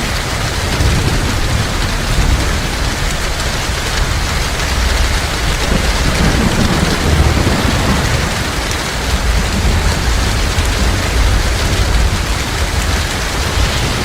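Heavy rain pouring steadily, a dense even hiss of drops, under a deep low rumble that swells about halfway through.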